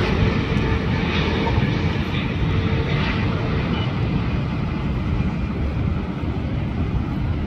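Jet engines of a landing China Southern Boeing 777-300 airliner, a steady noise that slowly eases, with an engine tone that fades out about two seconds in.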